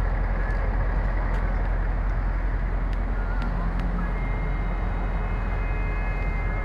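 Steady low rumble of an idling car engine. Faint steady high tones join it about four seconds in.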